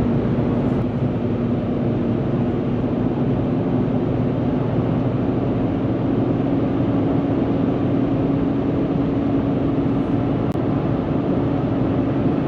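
Steady road and engine noise inside a moving car's cabin, an even rumble with a constant low drone.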